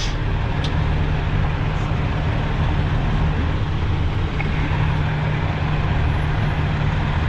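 Loaded dump truck's diesel engine running steadily at low speed, a constant low drone.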